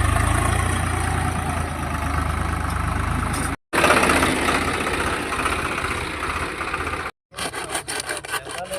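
Swaraj tractor engine running hard, with a loud mechanical rattle over it. The sound breaks off twice for a moment, and the last part turns to a run of separate knocks and clanks.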